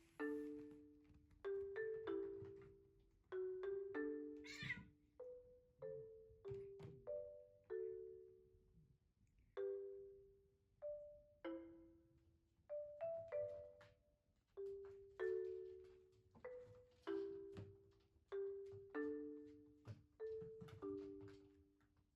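Gentle background music: a melody of struck mallet-instrument notes, marimba-like, each note ringing and fading before the next.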